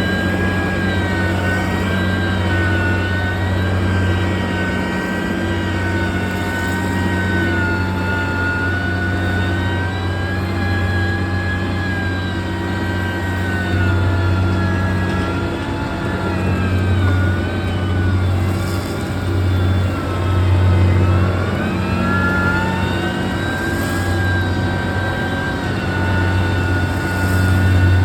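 Heavy road-construction machine's engine running continuously under load, a deep hum with a higher whine. Its pitch drifts slowly up and down as the revs change, dipping twice in the second half and climbing again.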